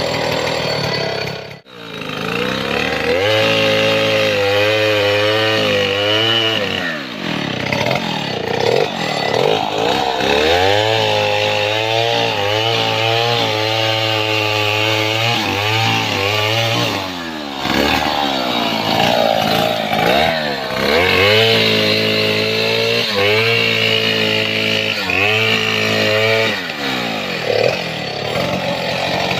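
Stihl 070 two-stroke chainsaw running while cutting mahogany. Its revs rise and fall, and settle into steady stretches of a few seconds each. There is a brief break about two seconds in.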